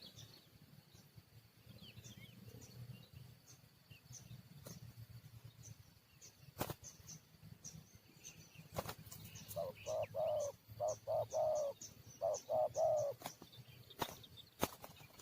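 Spotted dove (tekukur) cooing in three short phrases of repeated notes about two-thirds of the way in, over faint high chirping of small birds and a few sharp clicks.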